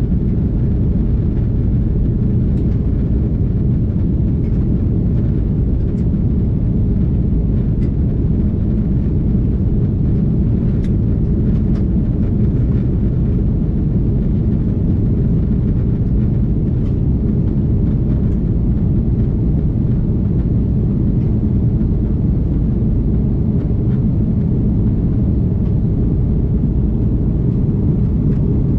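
Steady cabin noise of an Airbus A330-300 airliner in flight: a constant deep rumble of engines and airflow, with a few faint ticks.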